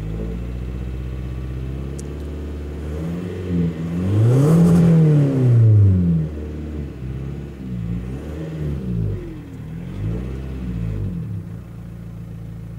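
Skoda Superb 1.9 TDI four-cylinder turbodiesel at the exhaust, idling, then revved once hard a few seconds in, the pitch rising and falling back. Several shorter blips of the throttle follow before it settles back to idle.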